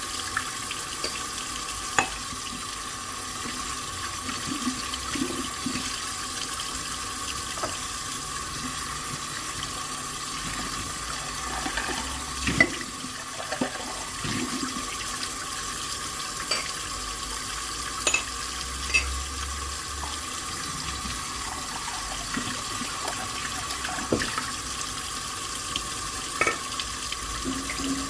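Tap water running steadily into a sink during hand dishwashing, with a few sharp clinks and knocks of dishes scattered through.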